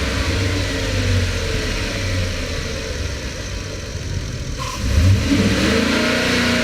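2012 Ford F-350 dually's engine running. It drops back and quietens, then is revved up about five seconds in and settles back down.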